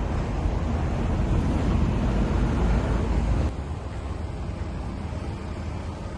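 Small bulldozer's engine running with a steady, noisy rumble while the machine works. The sound drops abruptly to a quieter level about three and a half seconds in.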